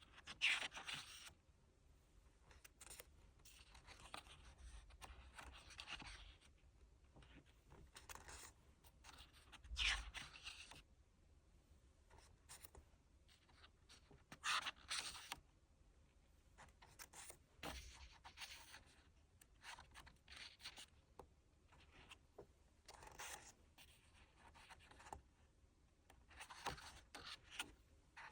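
Faint rustling and sliding of paper and card as an album photobook and its inserts are handled, in irregular brushes and scrapes. The loudest brushes come about half a second in, around ten seconds and around fourteen seconds.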